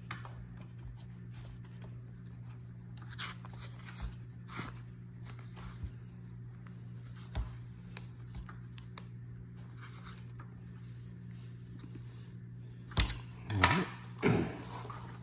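Allen key turning and tightening screws during 3D printer assembly, with parts handled: faint scattered clicks and ticks over a steady low hum, then a few louder sharp knocks near the end.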